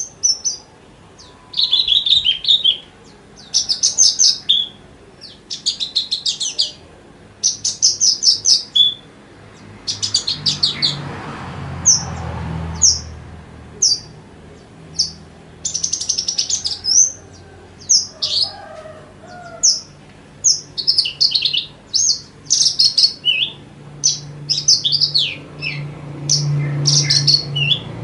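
Javan bush lark (branjangan) singing: quick, high chirping phrases and rapid trills strung together with only brief pauses between them. A faint low rumble sits underneath around the middle.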